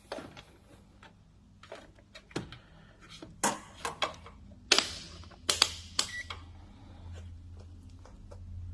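Scattered clicks and clacks of test leads and probe clips being handled and attached to a car battery for a voltage check, the loudest a cluster of sharp clacks about halfway through. A low steady hum comes in about halfway and stays.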